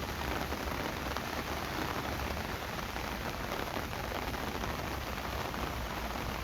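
Steady rain falling and pattering on hard surfaces, with a low rumble underneath.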